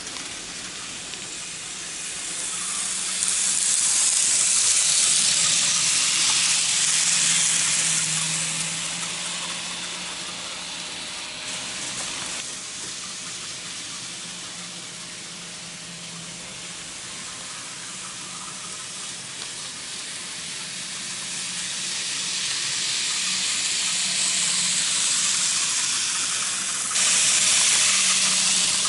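N-gauge model trains running on layout track: a steady rushing hiss of wheels on rail over a low motor hum. It swells louder twice as a train passes close, about four seconds in and again from about twenty-two seconds, with a sudden jump near the end.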